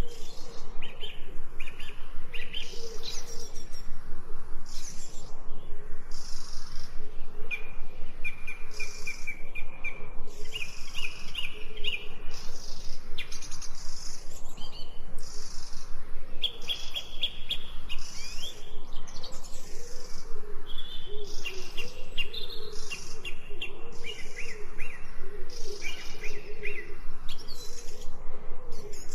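Several forest birds singing together: overlapping high chirps and fast trills, with a lower warbling call running underneath.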